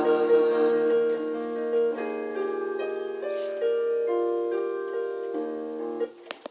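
Keyboard piano playing sustained chords as the closing bars of a song, with no singing. It cuts off abruptly about six seconds in, followed by a couple of sharp clicks.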